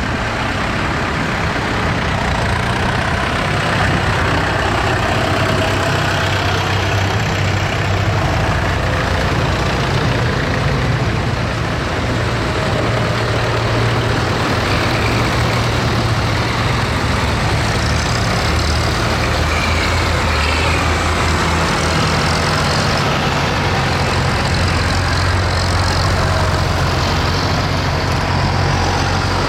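Tractor engines running, a steady low drone with no break.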